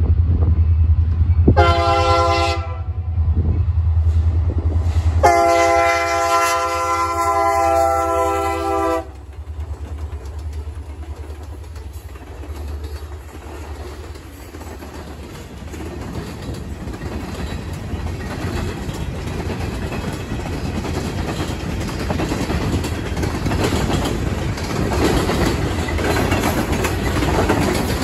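Union Pacific freight train at a grade crossing. The locomotive horn sounds one short blast and then one long blast of about four seconds over a low engine rumble. Then come the rumble and clickety-clack of hopper and tank cars rolling past, getting louder toward the end.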